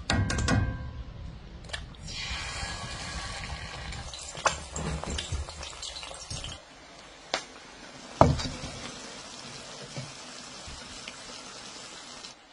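Eggs frying in hot oil in a cast-iron skillet, a crackling sizzle that is loudest in the middle and dies down after about six and a half seconds, with a few sharp knocks of utensils or cookware.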